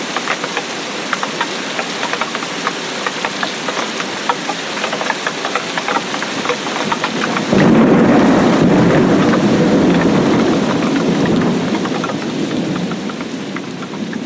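Steady rain with many close drops tapping, then about seven seconds in a loud rumble of thunder starts suddenly and slowly dies away.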